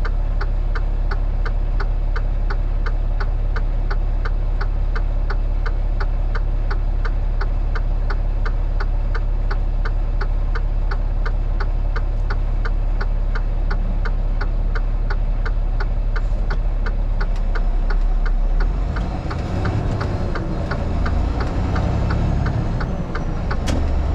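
A vehicle's turn-signal indicator clicks steadily, about two to three clicks a second, over the low hum of the engine. About three quarters of the way in, the engine and road sound change and grow rougher as the vehicle moves off, and the clicking fades under it.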